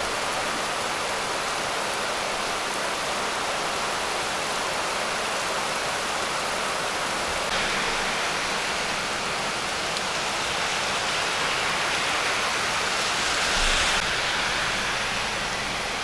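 Torrential rain pouring down on a street, pavement and grass: a steady, even hiss of heavy rainfall. It swells louder briefly a little before the end.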